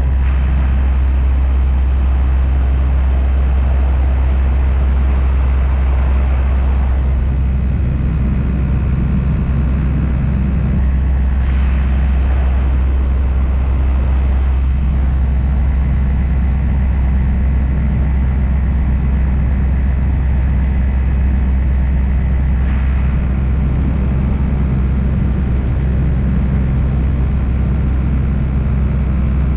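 Paramotor engine and propeller running steadily in flight, a loud, even low drone with no change in throttle.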